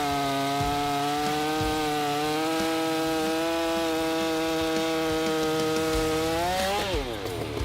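Holzfforma G660 two-stroke chainsaw running flat out at a steady high pitch, then the revs fall away sharply as the throttle is released about seven seconds in.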